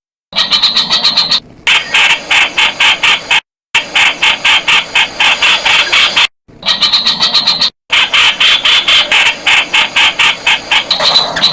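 Streak-eared bulbul calling: a fast run of sharp, chattering notes, about five or six a second, in bursts broken by short, abrupt silent gaps.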